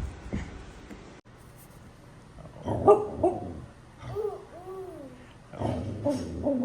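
A dog giving short, high yelping barks in two bunches, with brief rising-and-falling whining calls between them.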